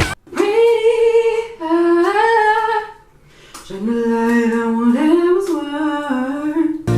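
A woman humming a slow, wordless tune unaccompanied, in two long held phrases with a short break about three seconds in.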